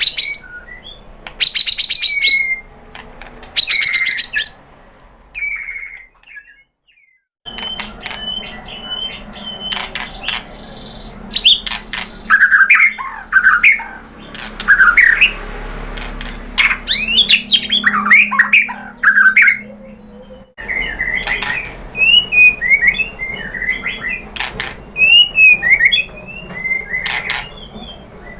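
White-rumped shama (murai batu) singing varied whistled and chattering phrases mixed with sharp clicks, with a brief silent break about six seconds in and an abrupt change in the recording about twenty seconds in.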